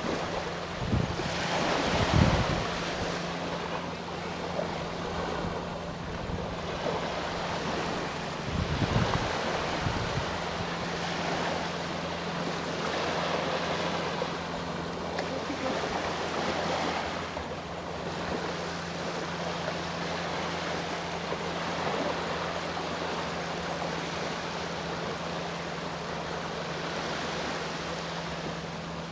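Sea waves washing onto the shore, the surf swelling and ebbing every few seconds, with two louder surges about two and nine seconds in. A steady low hum runs underneath throughout.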